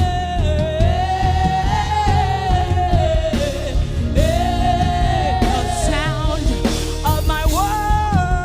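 Gospel worship singing with a live band: a lead voice holds long notes with vibrato and quick runs, over drums and bass.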